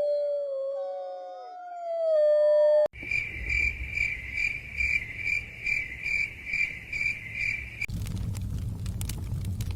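Long, falling howls from several overlapping voices, cut off abruptly about three seconds in. Crickets then chirp in an even pulse, about two chirps a second. Near the end this switches suddenly to a fire crackling over a low rumble.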